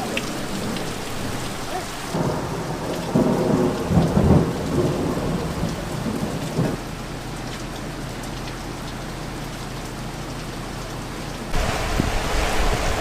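Rain falling steadily with a roll of thunder that starts about two seconds in, peaks around four seconds and dies away by about seven. Near the end the rain noise abruptly gets louder.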